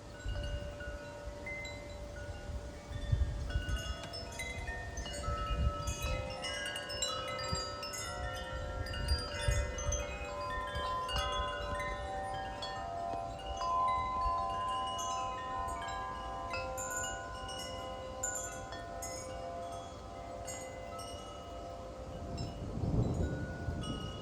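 Wind chimes ringing in gusty wind: many notes struck at random that ring on and overlap, over gusts rumbling on the microphone, with a stronger low gust near the end.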